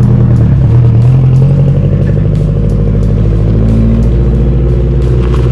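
Car engine running at idle close by: a steady low rumble whose pitch shifts slightly a few times.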